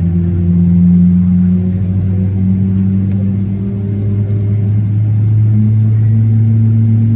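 Low, steady drone of a Boeing 777-300ER heard inside the cabin, made of a few steady tones, one of which rises slightly in pitch about five and a half seconds in.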